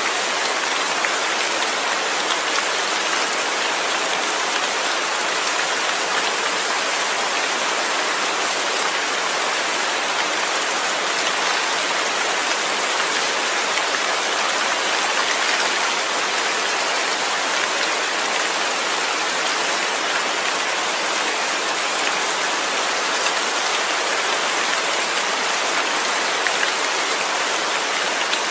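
Steady rain falling on a surface, an even, dense patter.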